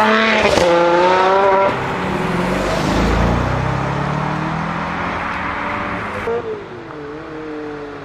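Ferrari 599's V12 engine accelerating hard: the note climbs, breaks briefly at a gear change and climbs again, then falls away and fades as the car goes off. About six seconds in it changes abruptly to a quieter engine note that dips and then rises.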